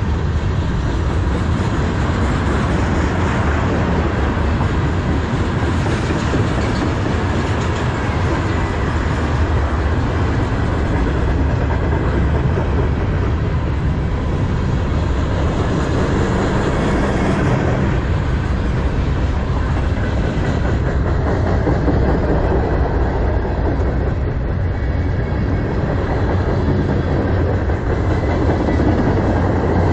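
Freight cars of a manifest train rolling past close by, steel wheels running on the rails in a loud, steady rumble.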